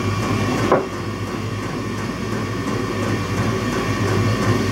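A steady low mechanical hum, with one brief rising sound about three-quarters of a second in.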